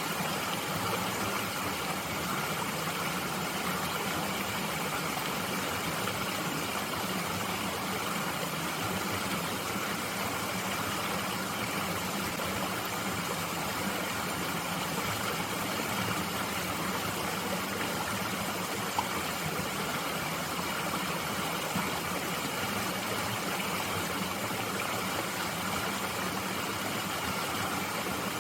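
Mountain stream running steadily, an even rushing of water with no change.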